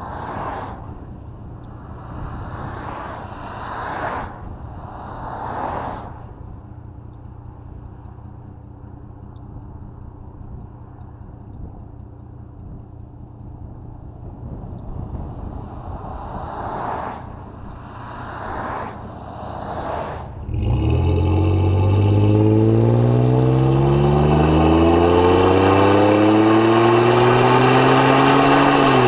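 2005 Jeep Grand Cherokee engine and exhaust through a Thrush welded muffler: a low steady drone with several passing whooshes, then about two-thirds of the way in the engine opens up under hard acceleration. Its loud note rises steadily for several seconds, and near the end the pitch drops sharply at an upshift.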